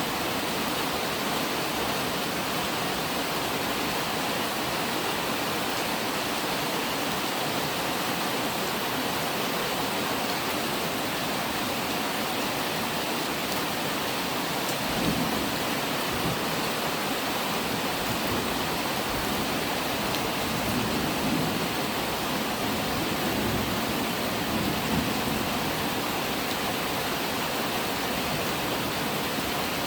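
Steady rain falling, an even hiss, with a few low rumbles about halfway through and again later.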